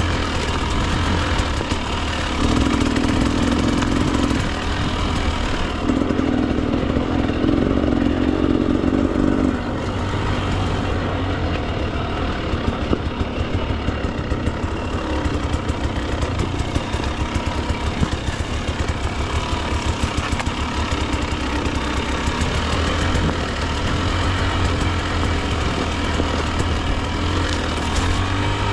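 Husqvarna TE 300 two-stroke dirt bike engine under way on a trail: two pulls at higher, steady revs in the first ten seconds, then chugging at low revs with a rapid, uneven popping, and steadier running again near the end.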